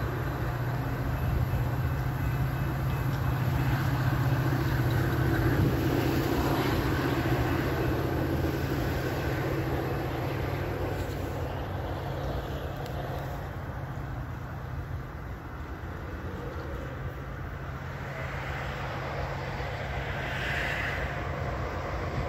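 Diesel-hauled commuter train running by, a steady engine drone with rolling noise that swells a few seconds in and slowly fades.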